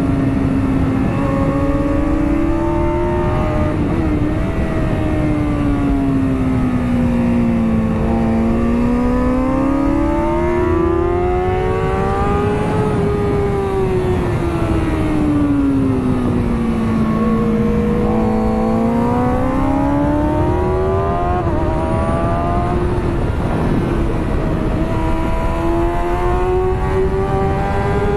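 2009 Kawasaki ZX-6R's inline-four engine running hard, its pitch climbing and falling in long sweeps, with a few sudden steps at gear changes. Heavy wind rush on the onboard microphone runs underneath.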